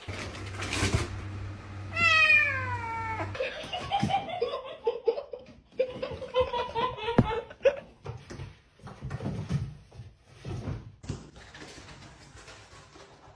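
Domestic cat meowing: one long meow falling in pitch about two seconds in, then a run of shorter meows, with scattered knocks and rustling.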